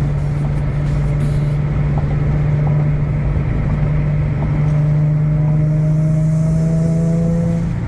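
Infiniti G37 sedan's V6 exhaust droning steadily while cruising at constant speed, through an aftermarket exhaust with quad carbon fiber tips that gives it a stronger sound. A fainter higher tone creeps slowly upward in the second half.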